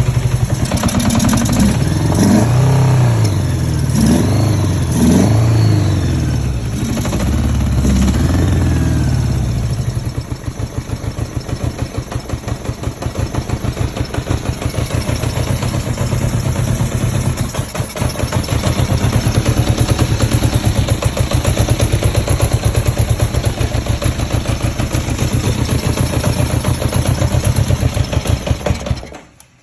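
Honda GL1100 Goldwing's flat-four engine coming back to life. It is revved up and down several times in the first ten seconds, then settles into a steady, pulsing idle, and is shut off suddenly near the end.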